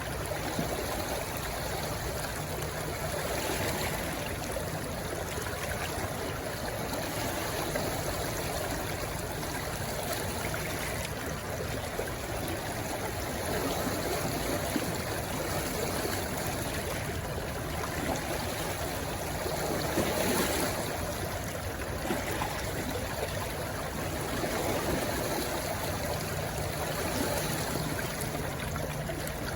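A shallow stream rushing and trickling steadily over stones, with small swells in loudness.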